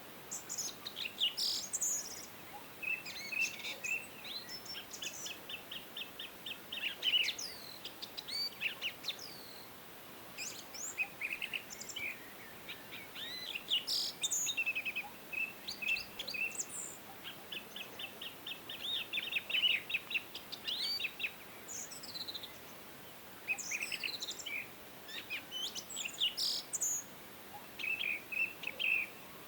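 Several songbirds singing and chirping, with rapid trills and short sweeping notes overlapping throughout, over a faint steady background hiss.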